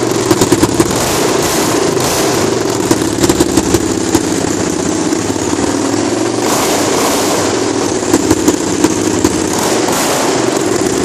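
Honda CRF250L's single-cylinder four-stroke engine running with no muffler, a raw open-exhaust note. Clusters of sharp pops from the exhaust come about half a second in, around three seconds in, and again around eight seconds in.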